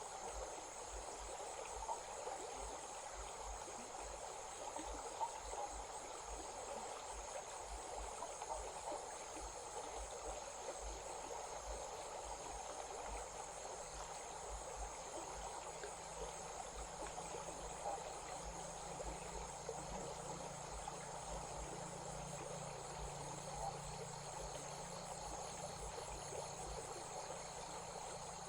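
A small stream running steadily, with insects such as crickets chirring in a continuous high pulsing drone over it. A faint low hum comes in about halfway through and fades near the end.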